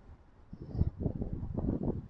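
Wind buffeting the microphone in uneven low rumbling gusts, starting about half a second in.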